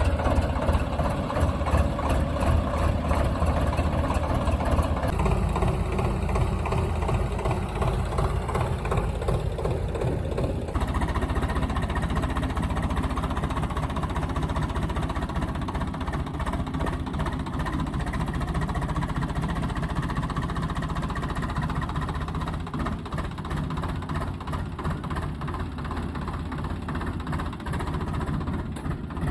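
Tractor diesel engine running steadily, its sound changing abruptly about 5 and 11 seconds in.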